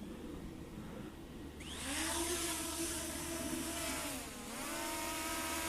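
JJRC X9 Heron quadcopter's motors spinning up about a second and a half in for take-off, then a steady whine with a brief dip in pitch a little past four seconds before it picks up again.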